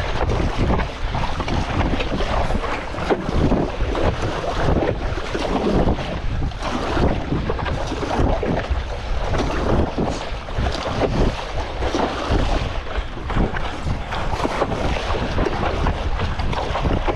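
Strong wind buffeting the microphone over choppy sea water splashing around a stand-up paddleboard, in an uneven, gusting rush.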